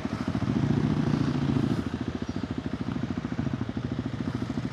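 Single-cylinder engine of a KTM 390 Adventure R running through a Norifumi Whoops stainless slip-on exhaust as the bike is ridden, with a pulsing exhaust note. The revs rise about half a second in and drop back at about two seconds, then run steady.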